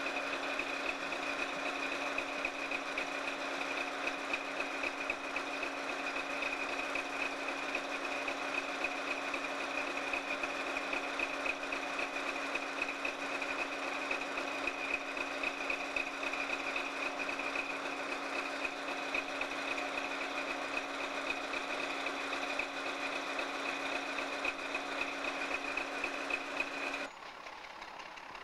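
Locomotive diesel engine running steadily, a continuous hum with a high whine on top. It cuts off suddenly near the end.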